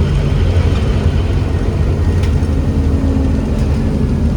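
Scania N270UD OmniCity double-decker bus's diesel engine running under way, heard from on board as a steady low drone.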